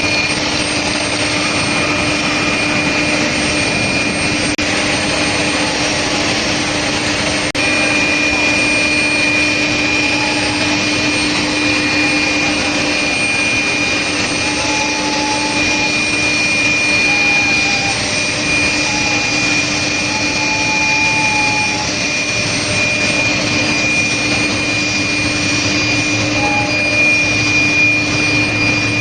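Medium-frequency steel plate induction heating line running: loud, steady industrial noise with a constant high whine over a lower hum.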